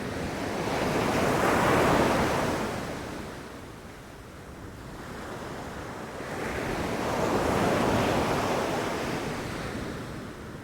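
Ocean waves breaking on a beach. Two waves each swell up and wash out over a few seconds, the first peaking about two seconds in and the second near eight seconds.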